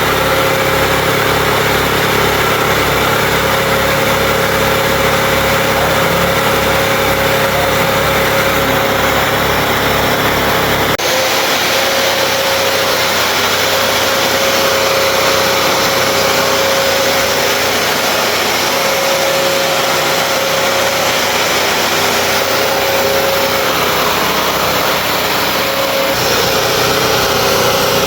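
Bissell CrossWave HydroSteam wet-dry vacuum running: loud, steady motor noise with a constant whine. About eleven seconds in, the low rumble drops away suddenly.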